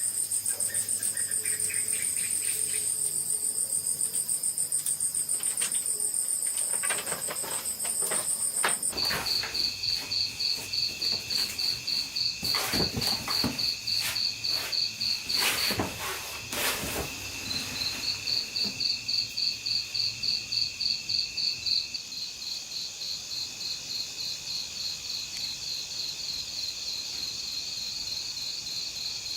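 Insects chirring in a fast, steady pulsing trill, very high-pitched at first; about nine seconds in a lower-pitched trill takes over. Scattered sharp clicks and knocks sound for several seconds after the change.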